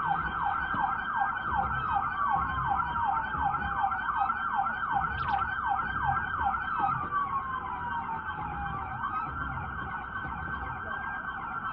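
Police car siren sounding continuously. For about the first six seconds it runs in a rapid yelp of about three falling sweeps a second, then changes to a slow wail that falls, rises and falls again.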